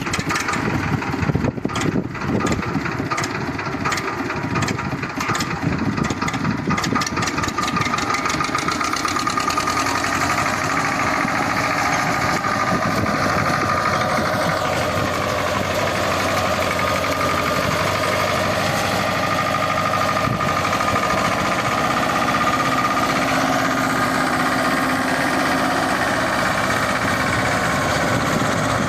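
Escort 325 tractor's diesel engine running, with sharp knocks about twice a second over the first several seconds that then merge into a steady drone.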